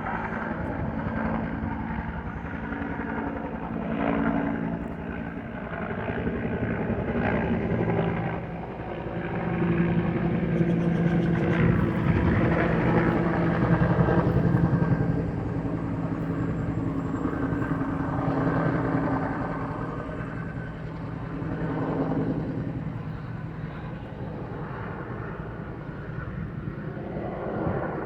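Cal Fire helicopter flying low near a landing field, its rotor and engine running steadily. The sound swells to its loudest about halfway through, then eases off.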